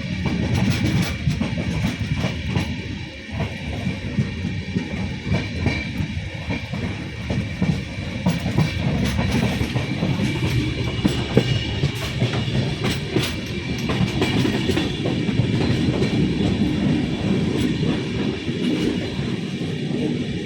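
A train running along the tracks: a steady low rumble with scattered clicks from the wheels.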